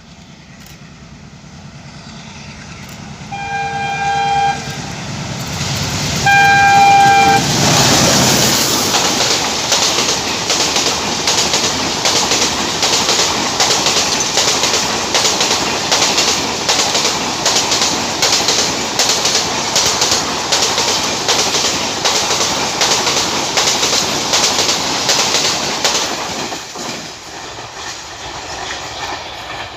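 ALCO WDM-3D diesel locomotive approaching and sounding its horn twice, two blasts of a few-note chord about three seconds apart. The locomotive then passes, and the coaches clatter over the rail joints in a fast, steady rhythm before fading away near the end.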